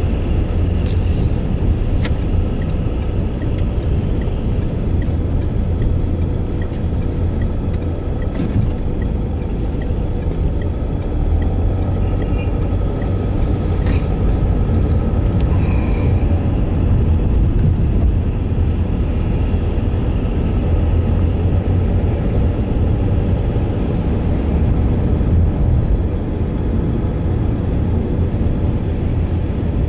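Steady low rumble of a car on the move, with a run of light regular ticks, about two a second, in the first few seconds.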